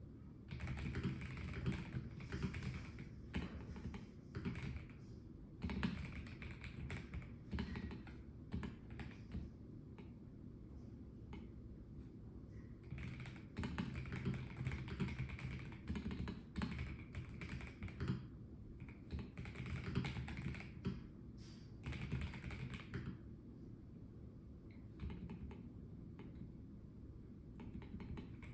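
Typing on a Melgeek Mojo84 plastic-case mechanical keyboard: runs of quick key clicks in bursts of several seconds, broken by short pauses, the longest about 11 s in and about 23 s in.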